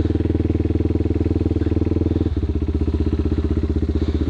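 Yamaha TW200's single-cylinder four-stroke engine idling with an even pulsing beat, the tone shifting slightly about two seconds in.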